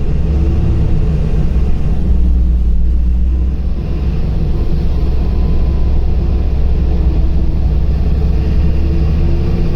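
A LiAZ 5292 city bus driving along, heard from inside: a steady low engine and road rumble, with a fainter hum whose pitch shifts now and then.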